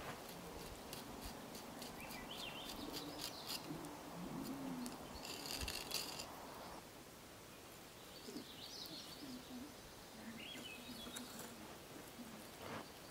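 Quiet outdoor ambience: birds chirping briefly a few times, over light clicks and scrapes of a knife working fish fillets on a wooden table.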